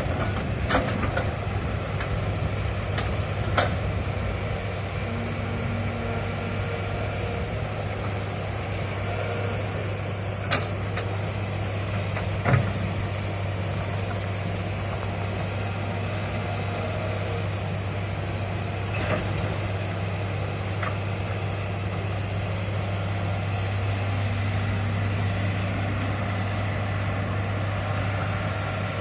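Hitachi hydraulic excavator's diesel engine running steadily at a low drone, with a few short, sharp knocks about a second, three and a half, ten and a half, twelve and a half, nineteen and twenty-one seconds in.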